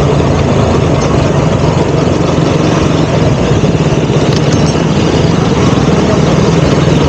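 KTM Duke 200's single-cylinder engine running at a steady, even pace, with road and wind noise over it.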